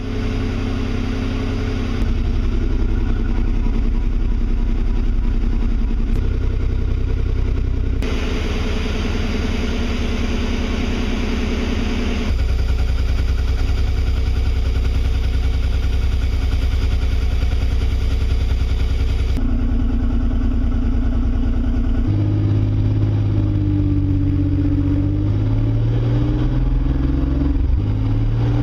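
The swapped-in 3.4-litre Camaro V6 of a Pontiac Fiero running steadily, its sound changing abruptly a few times. In the last several seconds its pitch rises and falls as it revs.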